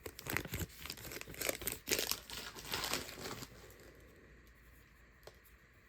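Plastic wrapper of a Donruss football card pack crinkling and tearing as it is ripped open and handled. The crackling stops about three and a half seconds in, and there is one small click near the end.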